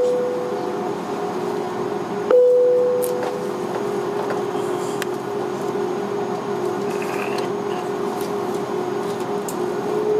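Airbus A330-300 jet engines running at idle: a steady rushing hum with one held mid-pitched tone. There is a sharp click a little over two seconds in.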